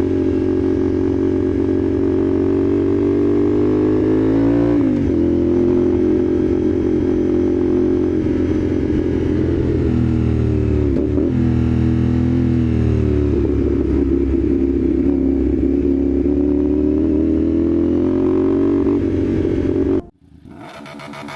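Motorcycle engine running through a slip-on AR aftermarket exhaust, its note falling about four seconds in and dipping and climbing again around ten to thirteen seconds in. It cuts off suddenly near the end.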